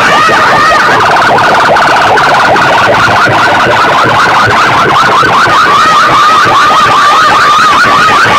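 Electronic siren effect blasted through a large PA speaker system at a sound-box competition: a loud, fast-warbling tone that wobbles up and down several times a second, turning to a flatter buzz about a second in before the warble returns.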